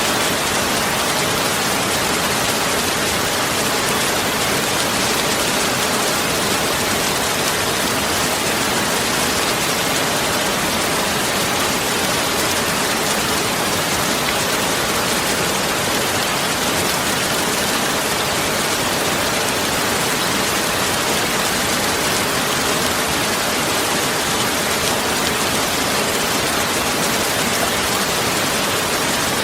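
Steady, even rushing noise that does not change in level.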